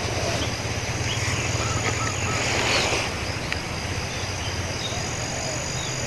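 Wild spotted dove (tekukur) cooing faintly over steady insect buzzing and a low hum, with a short rustle about halfway through.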